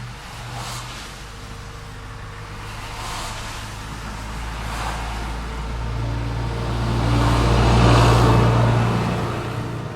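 City street traffic: cars pass by one after another, then a vehicle with a low engine hum approaches, growing to loudest about eight seconds in and fading away near the end.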